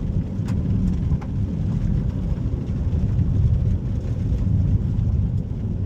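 Steady low rumble of a moving vehicle on the road, with a few faint ticks over it.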